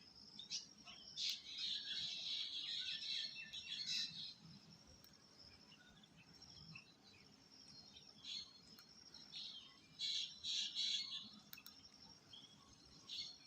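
Birds chirping in quick high-pitched clusters, busiest in the first four seconds and again from about eight to eleven seconds in.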